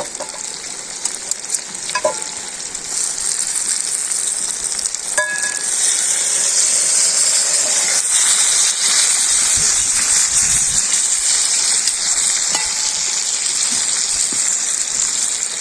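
Chicken, potatoes and vegetables sizzling in a kazan, a steady hiss that grows louder a few seconds in. A few short metallic clinks sound in the first five seconds as the last pieces of chicken go in.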